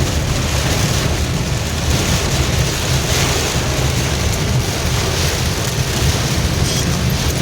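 Heavy rain falling, with the steady low rumble of a vehicle on the road beneath it.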